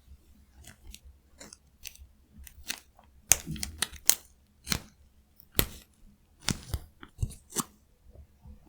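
Close-miked eating: chewing with a run of sharp, crisp crunches at irregular intervals, busiest and loudest from about three seconds in.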